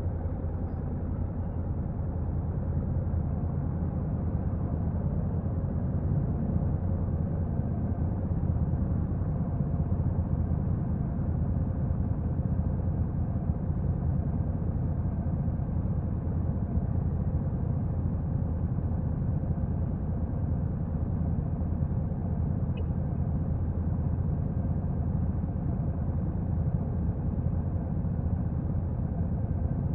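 Honda NC750X motorcycle's stock parallel-twin engine running steadily, a low even rumble with no change in pitch or level.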